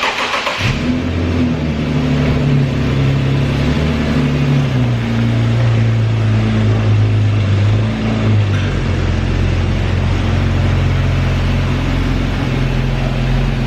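Infiniti M37x's V6 engine starting up and idling, its idle speed stepping down twice, about four and nine seconds in, as it settles.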